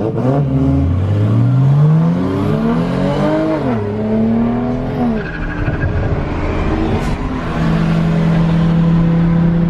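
Car engine accelerating hard at full throttle. Its pitch climbs for about three seconds, drops at a gear change, climbs again and drops at a second shift about five seconds in, then settles into a steady drone.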